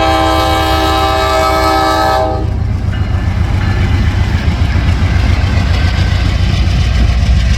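Diesel locomotive air horn sounding one chord of several tones together, cutting off about two seconds in, over the loud low rumble of the train rolling past on the rails.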